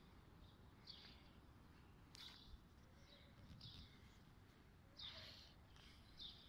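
Faint bird chirps: short calls roughly once a second, the loudest about five seconds in, over a faint low background rumble.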